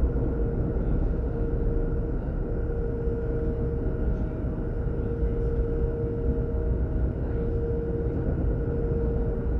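DB Class 422 electric multiple unit (Alstom/Bombardier) running at a steady speed, heard on board: a low rumble from the wheels and track, with a steady whine at an unchanging pitch.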